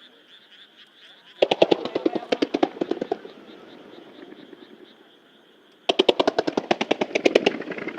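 Rapid-fire starmine fireworks: two volleys of sharp cracking reports, about ten a second, each lasting about a second and a half with an echoing rumble after. A steady frog chorus carries on underneath.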